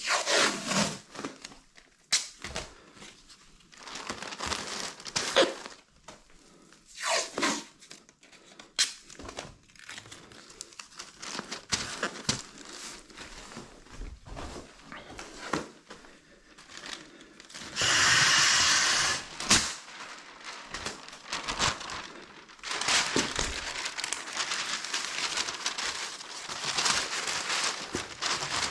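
Paper being handled: crinkling and rustling with short tearing rips, one longer continuous rip about two-thirds of the way through, then steady rustling near the end.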